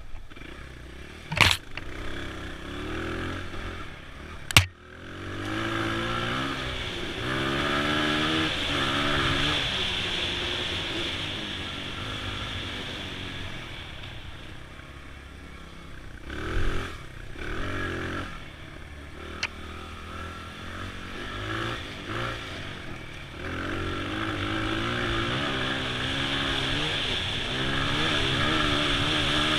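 2002 Honda XR100's single-cylinder four-stroke engine running under way, its pitch rising and falling with the throttle. It eases off in the middle and builds again toward the end, with two sharp knocks in the first five seconds.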